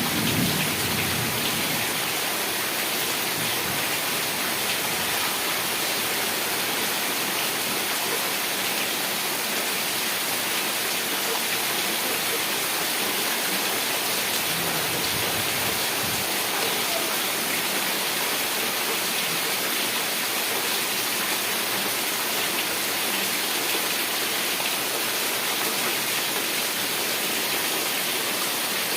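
Heavy rain falling steadily, an even hiss with no letup. The tail of a low thunder rumble dies away at the very start.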